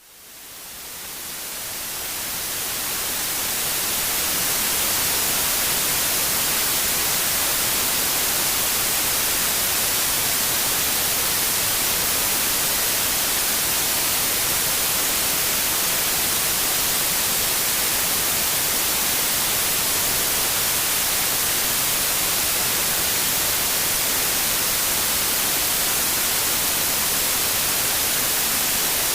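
Generated white noise, an even hiss strongest in the high end, fading in over the first four seconds and then holding steady.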